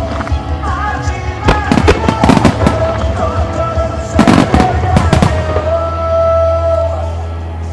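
Firework shells bursting in two quick clusters of bangs, about one and a half and four seconds in, over the music that the starmine display is set to; the music ends on a long held note.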